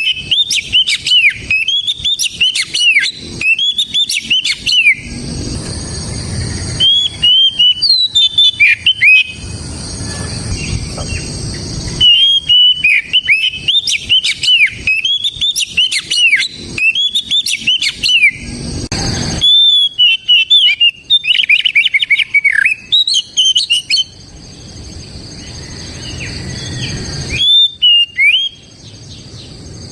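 Oriental magpie-robin (kacer) singing loud, clear whistled song phrases full of quick pitch glides, in bursts of a few seconds with short pauses between.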